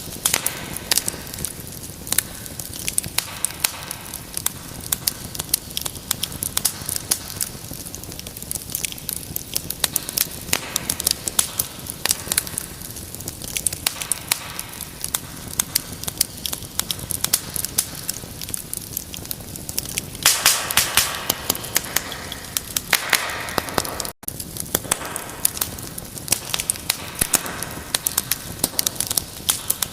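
Wood fire in a fireplace crackling, with frequent sharp pops over a soft hiss. About two-thirds through, the crackling thickens into a louder, hissing stretch for a few seconds, then the sound drops out for an instant.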